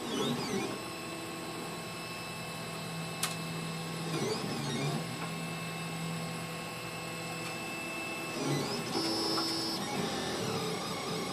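Solidoodle 3 3D printer running a print: its stepper motors whine in steady tones that glide up and down as the print head changes speed and direction. A single sharp click comes a little after three seconds.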